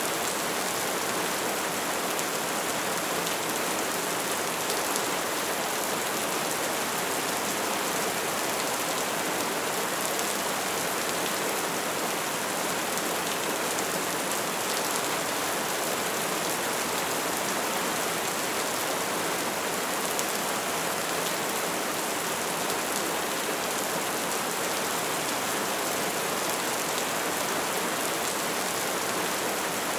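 Soft rain falling steadily, an even hiss with faint scattered drop ticks.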